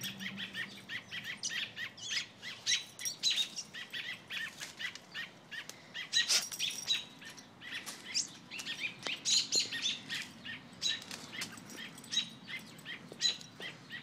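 Injured small bird chirping over and over: short high chirps, two or three a second with brief pauses.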